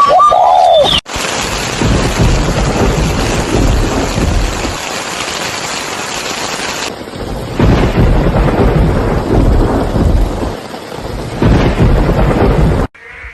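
Thunderstorm: steady rain with rolling thunder, the loudest rumbles about eight and twelve seconds in. In the first second, a short high call that glides up and down, cut off abruptly.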